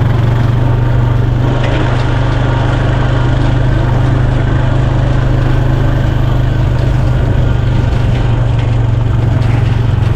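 ATV engine running at a steady pitch, with a constant low drone and no change in speed.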